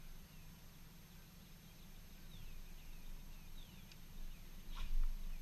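Birds calling: many short, falling chirps, with one louder, sharper sound and a low bump about five seconds in.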